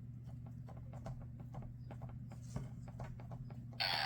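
Faint patter of small irregular clicks over a steady low hum. A little before the end, a loud, brief burst with a falling sweep cuts in.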